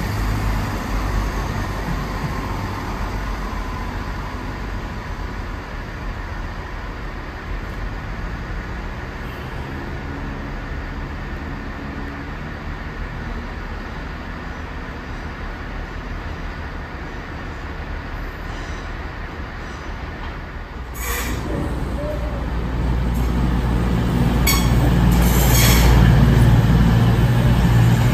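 Trains on the line: a steady rumble that slowly eases, then about three-quarters of the way through another train comes in with a rising low rumble and a few sharp clicks, getting louder towards the end.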